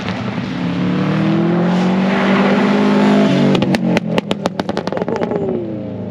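Tarmac rally car driving hard past the finish line: the engine climbs in pitch, drops with a gear change about three seconds in, then gives a rapid string of sharp exhaust pops and crackles off the throttle before its falling note fades away.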